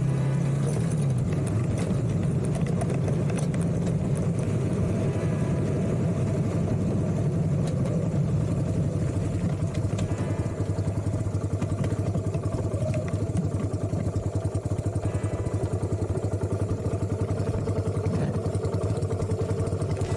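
Yamaha Virago 250's air-cooled V-twin idling steadily, running on a freshly fitted battery after failing to crank.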